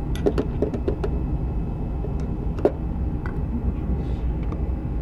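Small clicks and taps of a hand tool working a ground screw on an electric water heater, working to get it snug. The clicks come several in quick succession in the first second, with a sharper knock about two and a half seconds in, over a steady low hum.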